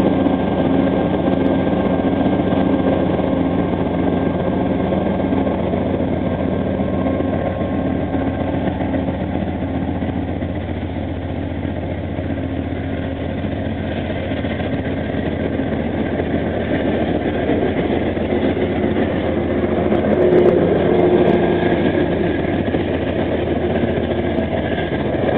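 Amtrak GE P42DC diesel locomotive's engine running under power as it pulls out. The engine tones fade after the first half, leaving the steady rolling noise of the passenger cars passing close by on the rails.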